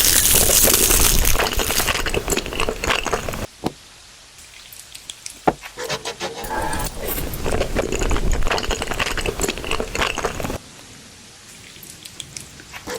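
Close-miked crunching of crispy fried food being bitten and chewed, a dense crackle in two long bouts with a quieter pause between them.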